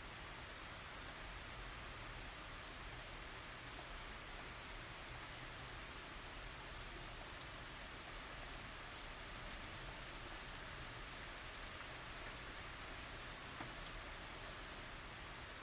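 Steady tropical rain falling, an even hiss dotted with scattered ticks of individual drops, with no thunder.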